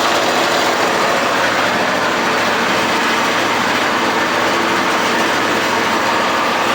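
Riding lawn mower engine running steadily, started on a freshly installed battery.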